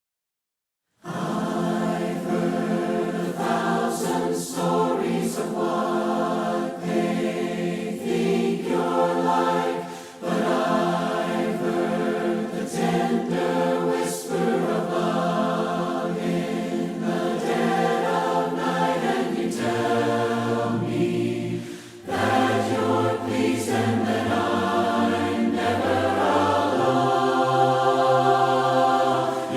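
Choir singing a hymn in four-part harmony without instruments, a cappella as in Churches of Christ, starting about a second in after a moment of silence. Lower bass voices come forward about two-thirds of the way through.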